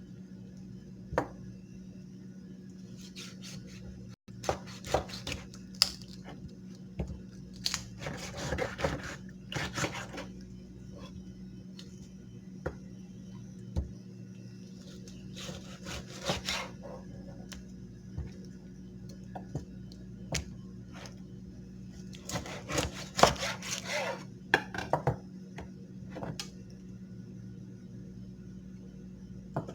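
Knife being sharpened: several bursts of rapid scraping strokes, with single clicks and knocks between them, over a steady low hum.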